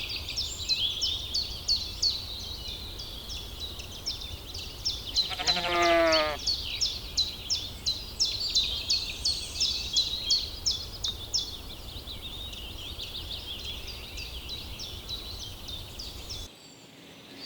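A sheep bleats once near the middle, a wavering call lasting about a second. Under it runs a steady rapid high chirping, several chirps a second, along with a low rumble. Both stop abruptly near the end.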